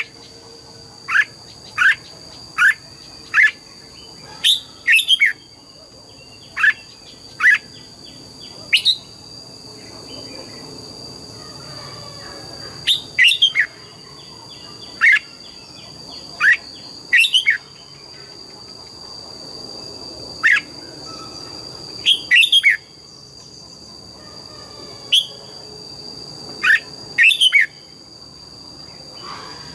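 Red-whiskered bulbul giving short, sharp, downward-sliding notes, singly or in quick pairs, every second or two with a few seconds' pause in the middle. A steady high-pitched whine runs underneath.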